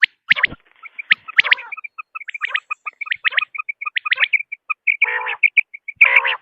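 Common quail calling: a quick series of short, high chirping notes, several a second, broken by a few louder, sharper calls.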